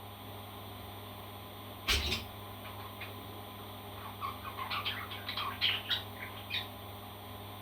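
Pet parrot calling: one sharp squawk about two seconds in, then a run of quick, short chirps in the middle.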